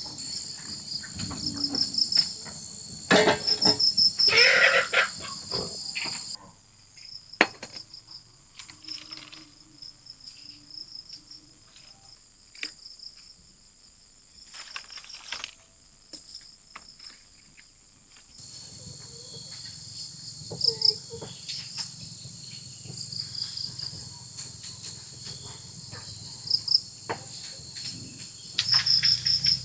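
Crickets chirping in a steady high chorus, broken by scattered knocks and clatter of something being handled, loudest a few seconds in. The chorus drops out for a stretch in the middle and comes back.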